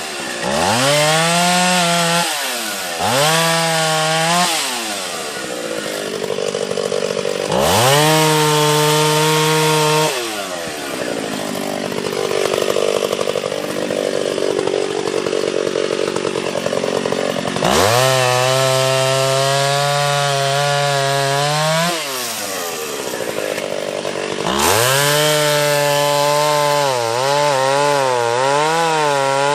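Two-stroke chainsaw revved up to full throttle again and again, dropping back to idle in between. In the middle and near the end its whine sags and turns rough as it bogs down under load while cutting wood.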